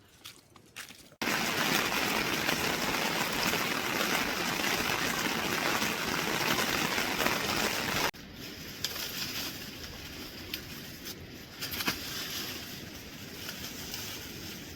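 Steady rushing water, loud for about seven seconds, then cutting abruptly to a quieter water hiss with a few scattered clicks and taps.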